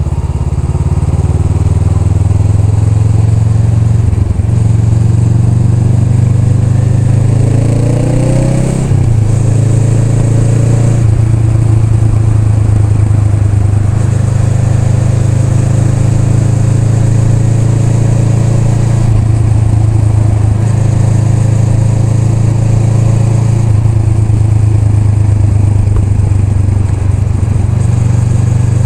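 Honda Rebel 500's parallel-twin engine running under way: revs climb about seven to nine seconds in, then drop suddenly as it shifts gear, and it settles into steady cruising for most of the rest.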